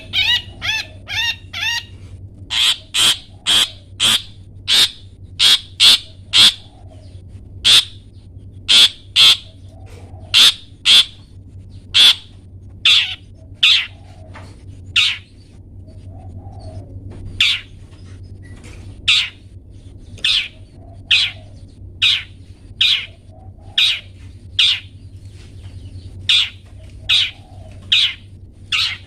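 Long-tailed shrike (cendet) calling: a quick run of fast chirps, then from about two seconds in a steady series of short, harsh 'toet' calls, singly and in pairs, about one or two a second.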